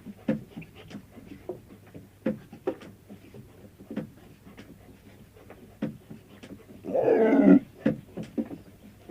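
Lion vocalising: a run of short, irregular grunts and breaths, with one louder pitched call lasting about half a second about seven seconds in.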